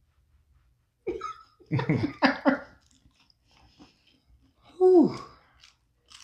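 Close-up chewing and wet mouth sounds of someone eating fried fast food, with short wordless vocal sounds about two seconds in and a single falling hum near five seconds.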